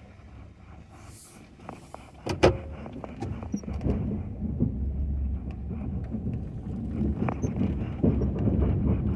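Ford F-250 pickup with a Western snowplow at work: the truck runs and the blade pushes snow. There is a sharp bang about two and a half seconds in, the loudest sound, and after it a louder, rough low rumble with scattered clicks.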